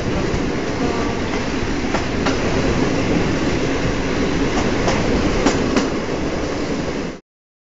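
Passenger train running along the track, heard from an open carriage window: a steady rumble of wheels on rail, with two pairs of quick clicks as the wheels cross rail joints. The sound cuts off abruptly near the end.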